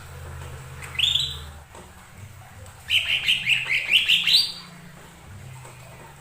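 Cucak ijo mini (lesser green leafbird) singing: a single rising whistled phrase about a second in, then a quick run of about seven rising notes that climb higher toward the end. This is a lure song meant to set a caged bird singing.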